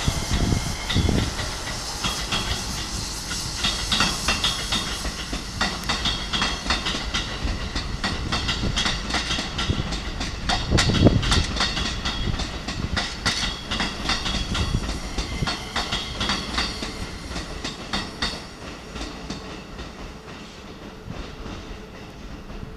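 Keikyu 1000 series electric train running past, its wheels clattering rapidly over rail joints and points, with a high metallic ring over the clatter. The sound fades over the last few seconds as the train draws away.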